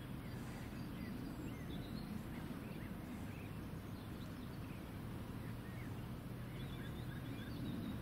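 Small birds chirping faintly, short high calls scattered throughout, over a steady low outdoor rumble.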